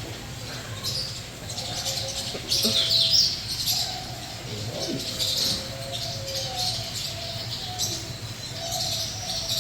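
Many birds chirping and calling over one another in an aviary, with a steady low hum underneath.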